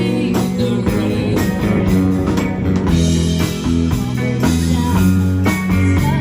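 Rock band music: electric guitar over bass and drums with a steady beat, in an instrumental stretch without singing.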